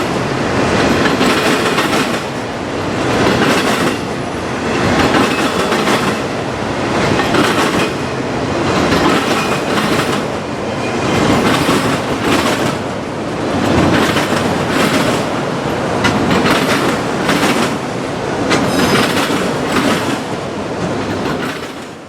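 Train cars rolling past, their wheels clattering over the rail joints, with the sound swelling about every two seconds. It dies away abruptly at the end.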